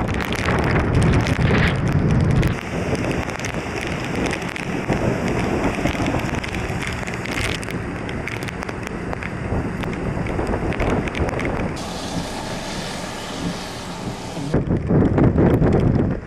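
Typhoon wind and heavy rain, with wind buffeting the microphone: a loud, steady rushing noise that shifts abruptly a few times.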